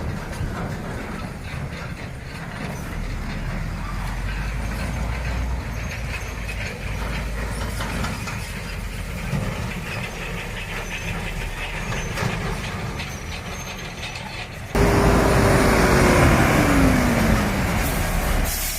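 Heavy truck running, with a steady low rumble and rattling. About fifteen seconds in, the sound jumps louder and a whine falls in pitch.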